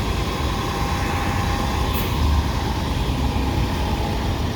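Steady low rumble of a vehicle being driven, heard from inside the cabin: engine and road noise with no sudden events.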